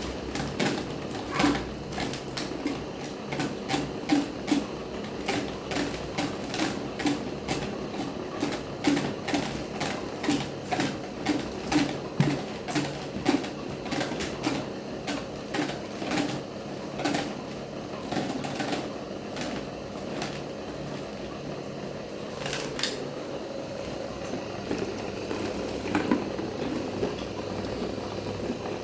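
Electric fan running with a homemade propeller, a steady motor hum under a run of sharp clicks or rattles, about two to three a second, that thin out and become irregular after about eighteen seconds.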